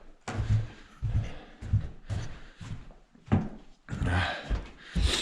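Footsteps thudding across a floor, one or two a second, with a sharper knock about three seconds in.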